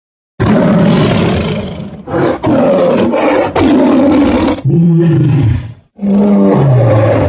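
Tiger roaring: a series of about six loud, rough roars with short breaks between them, the later ones dropping in pitch. The sound cuts off suddenly at the end.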